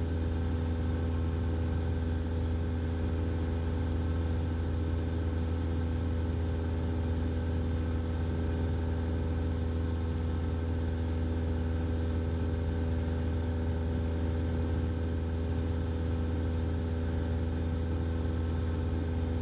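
Cessna 172's four-cylinder engine and propeller droning steadily in flight: a constant low hum with a few steady tones above it, and no change in power or pitch.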